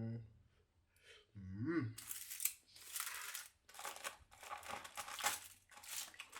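A man's short hum twice as he tastes the food, then from about two seconds in repeated crinkling and rustling of the wrapping around the steamed fish being handled and opened.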